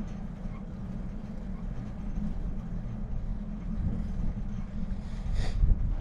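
Low, steady rumble of wind buffeting the microphone and road noise while riding a bicycle, with a brief sharper sound near the end.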